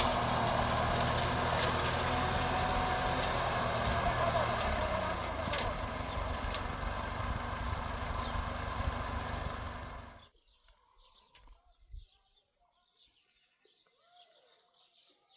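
A large engine runs steadily, easing a little about halfway through, then dies away quickly about ten seconds in. Faint bird chirps and a few soft knocks follow.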